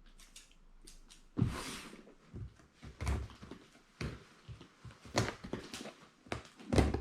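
Large cardboard LEGO set box being opened and handled: a string of cardboard knocks and thuds with scrapes, the loudest about a second and a half in.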